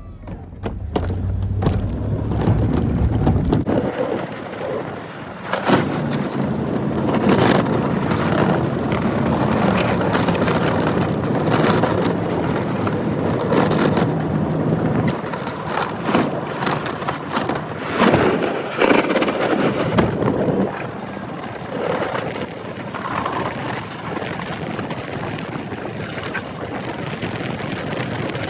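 Chevy plow truck engine running while it plows snow, with sharp knocks from time to time and wind on the microphone.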